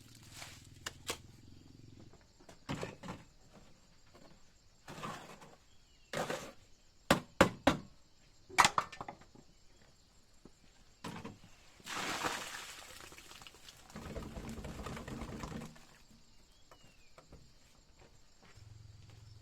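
Irregular knocks and thuds, several sharp and loud around the middle, followed by two stretches of steady rasping noise of about one and two seconds.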